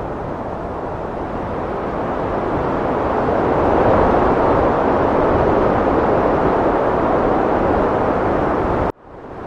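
Heavy wind blowing as a steady rushing noise that swells louder a few seconds in. Near the end it cuts out abruptly for an instant and fades back in, the seam of a looped recording.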